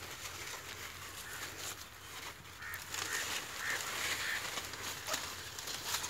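Faint short bird calls, a handful of them about half a second apart, in the middle of the stretch.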